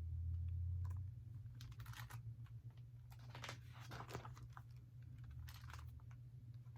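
Faint handling noises, a scatter of light clicks and rustles, over a steady low hum.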